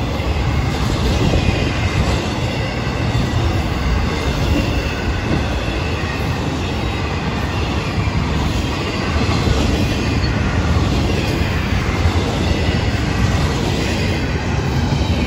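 Florida East Coast Railway intermodal freight cars rolling past close by: a steady rumble and rattle of steel wheels on the rails. A thin, high wheel squeal runs over it.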